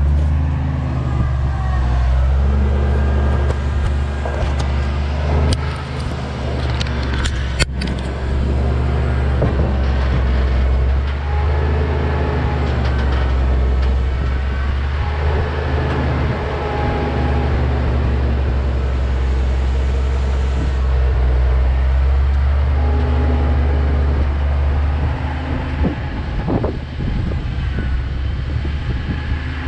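A vehicle engine running steadily with a loud low rumble, its pitch shifting now and then, with scattered clicks and rattles.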